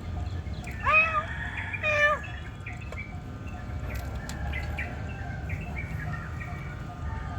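A cat meows twice, about a second apart, with birds chirping faintly in the background.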